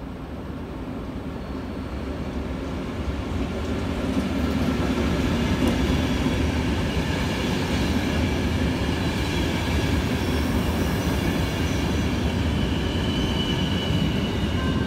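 Locomotive-hauled passenger train rolling past close by, getting louder over the first few seconds as it nears, then a steady rumble of wheels on rails. Faint high wheel squeal sits above the rumble.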